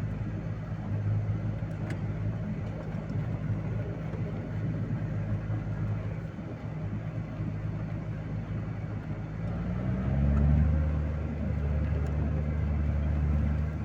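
Vehicle engine running steadily under load, then revving up about ten seconds in and holding at the higher, louder pitch.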